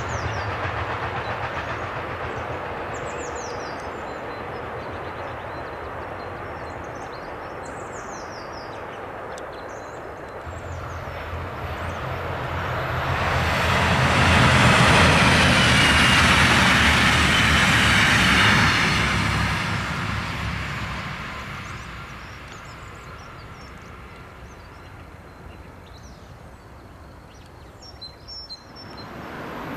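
A freight train rolls away and fades. Then a DSB IC3 (class MF) diesel multiple unit approaches and passes, its engine drone and wheel noise swelling to a peak midway and fading again. Birds chirp now and then.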